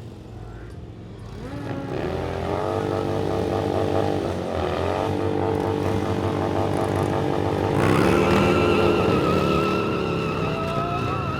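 Motorcycle engine revved up and held at high revs during a burnout, dipping briefly before climbing again. About two-thirds of the way through, a high wavering squeal from the spinning rear tyre joins it and carries on.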